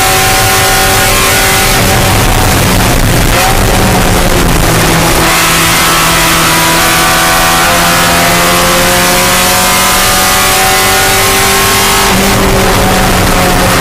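Spec Miata race car's four-cylinder engine pulling hard at high revs. The note breaks up a few seconds in, then its pitch climbs slowly for several seconds before changing again near the end.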